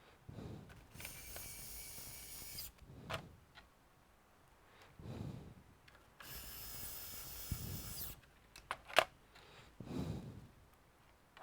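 A small electric screwdriver running in two steady whirring spells of about two seconds each, turning laptop screws. Clicks and taps of parts being handled fall between them, the sharpest about nine seconds in.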